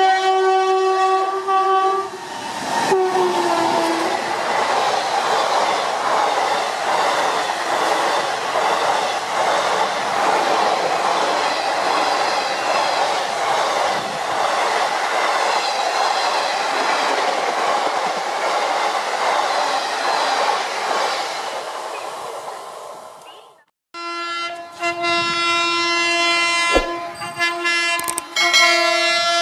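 A WAG-9HC electric locomotive's horn chord blows as it approaches and drops in pitch as it passes. Then comes a long, steady rush of its coaches' wheels on the rails at about 110 km/h, fading out. After a sudden break, another electric locomotive's horn sounds in several blasts as it approaches.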